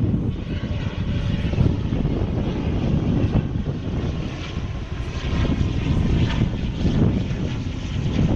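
Airliner engines running: a steady low rumble with faint high whining tones above it.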